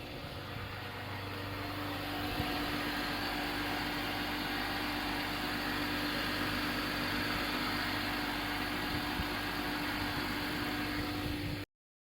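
Vehicle engine idling steadily, running on the newly replaced battery.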